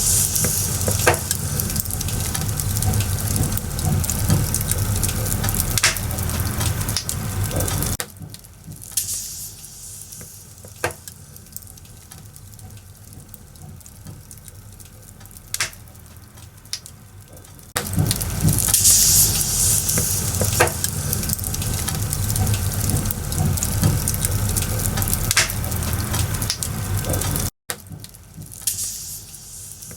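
Firewood burning in a bonfire: a steady hiss broken by sharp crackles and pops every few seconds. A louder, rumbling stretch of the fire stops abruptly about a quarter of the way in, returns a little past halfway, and cuts off again shortly before the end.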